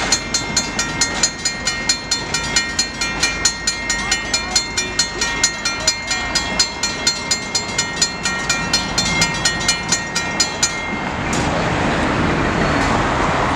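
Railroad bell ringing rapidly, about four strokes a second, with each stroke ringing on. It stops near the end, leaving the steady rush of a moving train.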